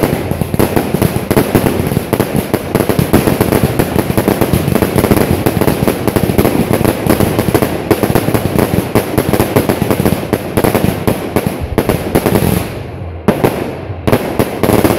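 Firework battery firing shot after shot in quick succession: a dense, continuous stream of bangs and crackling. It eases briefly near the end, then a few last shots follow.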